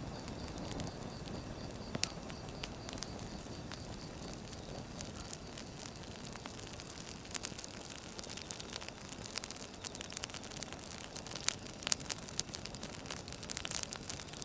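Wood fire crackling: a steady low rumble of burning logs with sharp pops and snaps, which come thicker toward the end.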